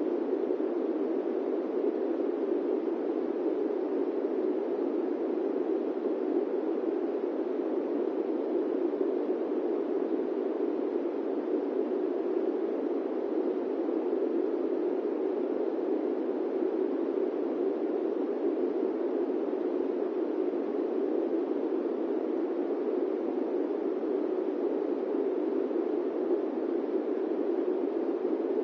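Steady airplane-cabin white noise: an even, unchanging rushing hiss centred in the low-middle range, with no engine tones, clicks or other events.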